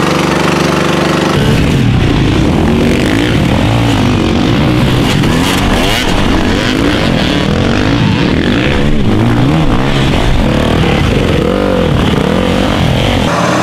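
Tractor engine revving hard, its pitch rising and falling over and over. A steadier engine note gives way to it abruptly about a second and a half in and returns just before the end.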